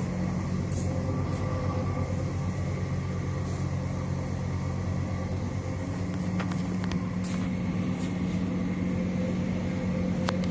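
Steady low hum of a running engine or motor, with a few faint clicks in the second half.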